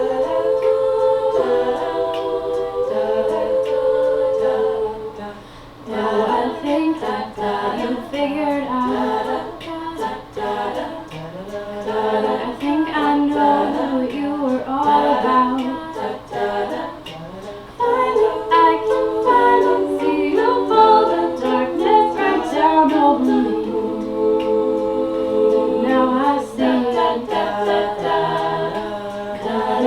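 A cappella vocal group singing a pop song: several voices hold sustained chords under moving melodic lines, with sharp clicks keeping a beat. The singing swells louder about two-thirds of the way through.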